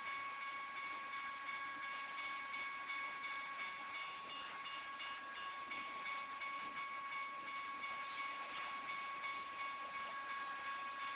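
A train rolling steadily through a grade crossing, with the crossing's electronic bell sounding as steady high tones over the wheel and rail noise.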